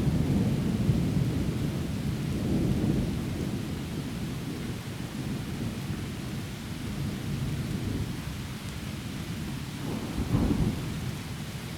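Rolling thunder rumbling low and fading away over steady rain falling through the trees, with a short low rumble of thunder about ten seconds in.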